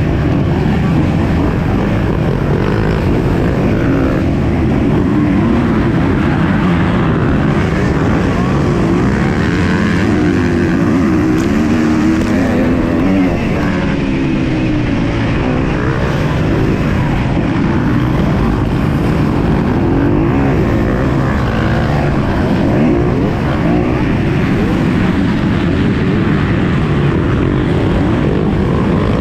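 MX2 motocross bike engine running hard under racing, its pitch rising and falling again and again as the rider revs up and shifts.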